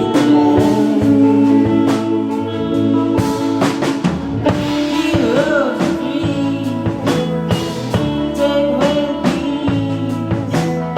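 Live rock band playing a song: drum kit keeping a steady beat under sustained instrument notes, with a singing voice heard at times.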